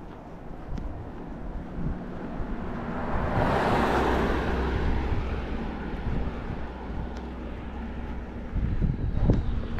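A vehicle driving past, its tyre and engine noise swelling to a peak about four seconds in and fading away, with wind buffeting the microphone. A few sharp knocks come near the end.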